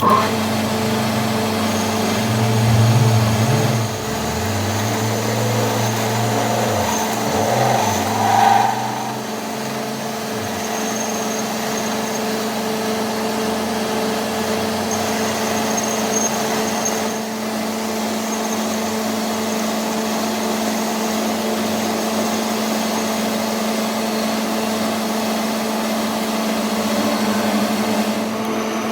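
A machine running steadily with a constant hum and a faint high whine. A lower, wavering rumble rises and falls under it for the first ten seconds or so, then drops away.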